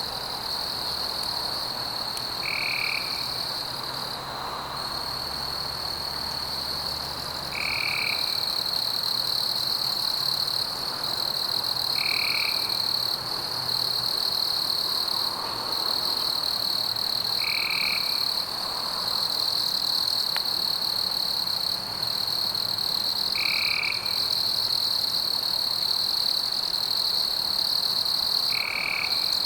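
Rainforest ambience of frogs calling: a steady high trill runs throughout, and a short call repeats about every five seconds.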